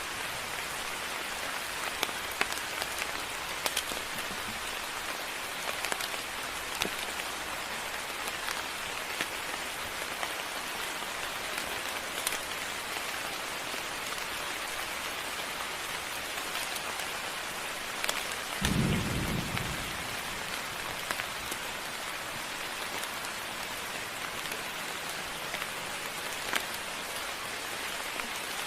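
Steady rain falling on surfaces, with scattered sharp drip ticks. About two-thirds of the way through there is a short, low rumble of thunder.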